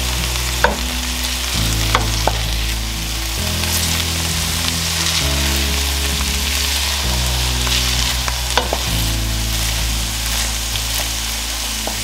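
Diced kielbasa and onions sizzling as they fry in a stainless steel pot, stirred with a wooden spatula. A few sharp clicks come as the spatula knocks against the pot.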